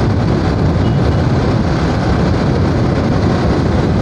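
Steady low rumble of wind and engine noise from a motorcycle being ridden along a road.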